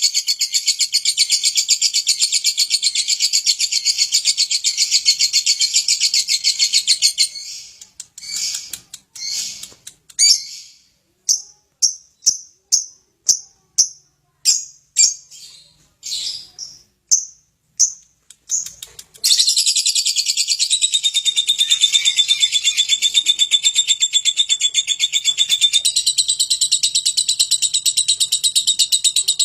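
Lovebird singing a fast, continuous chattering song. About seven seconds in it breaks into a run of separate short chirps, roughly two a second, then takes up the unbroken chatter again about twenty seconds in, with a held whistling note inside it for a few seconds.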